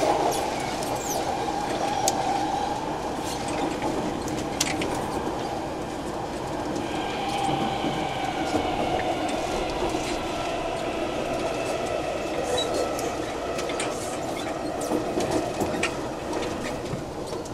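Taipei Metro C371 train running, heard from inside the car near the gangway: a steady wheel-and-rail rumble with scattered sharp clicks. From about seven seconds in, a high-pitched electric whine from its Mitsubishi IGBT VVVF inverter and traction motors joins in.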